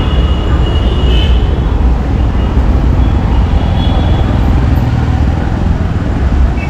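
City street traffic: a steady, heavy low rumble of passing vehicles, with a few faint short high tones about a second in and near the end.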